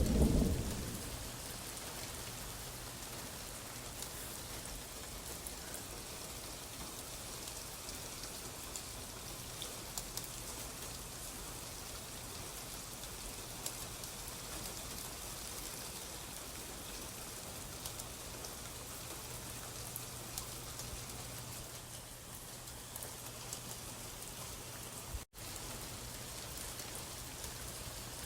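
Steady rain falling, an even hiss with scattered small ticks of drops, after the last of a low thunder rumble dies away in the first second. The sound cuts out for an instant about 25 seconds in.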